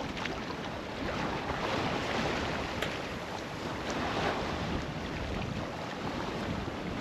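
Steady wind and water noise aboard a sailboat under sail, with wind buffeting the microphone.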